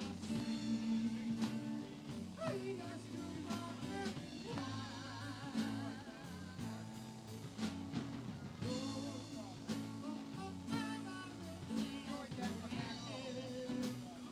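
Live band playing a blues-rock number: guitar and drum kit over a steady low accompaniment, with a lead line that wavers and bends in pitch.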